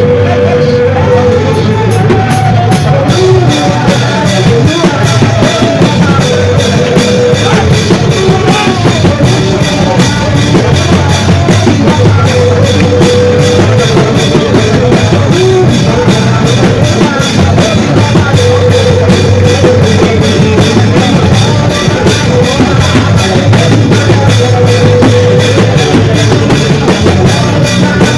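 Loud band music with a drum kit, bass and guitar playing a steady fast beat, and a short melodic phrase recurring every few seconds.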